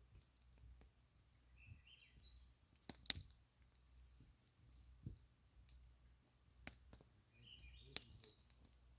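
Campfire crackling faintly, with scattered small clicks, a sharp pop about three seconds in and another near the end.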